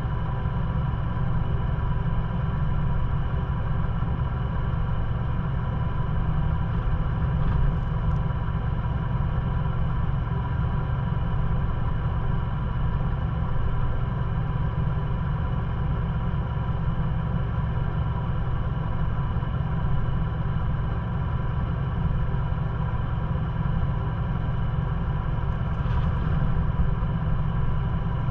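A Ford Bronco's engine idling steadily while the vehicle sits stopped, a low, even engine note.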